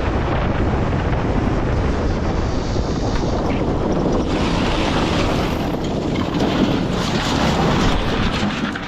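Loud, steady wind rush over the microphone of a camera on a moving motorcycle.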